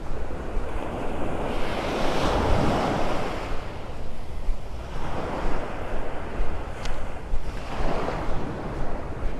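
Small surf breaking and washing up the beach, swelling about two seconds in and again near the end, with wind rumbling on the microphone.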